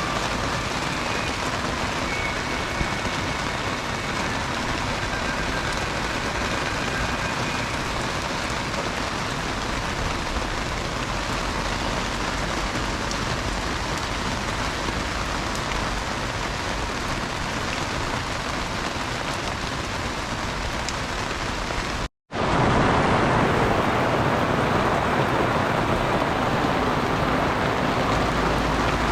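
Heavy rain falling and hitting surfaces, a steady hiss. Near the end it cuts out for a moment, then comes back slightly louder.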